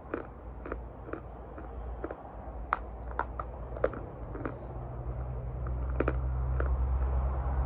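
Close-up crunching and chewing of a hard piece of chalk: a dozen or so sharp, irregular crunches, loudest a little before and after the middle. A low steady rumble grows louder in the second half.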